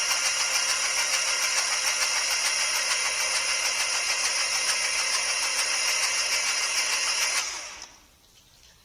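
John Deere 855's three-cylinder diesel cranked over on its starter motor with the injectors removed, a steady whirring that stops about seven and a half seconds in. This is a rough check for compression, and the engine does not fire.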